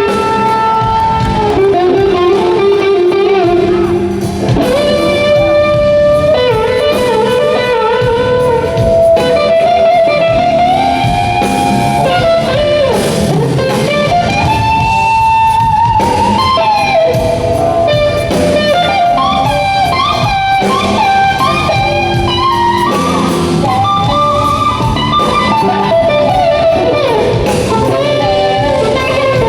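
Live blues-rock band: an electric guitar plays a lead line full of bent and sliding notes over the rhythm section, with no singing.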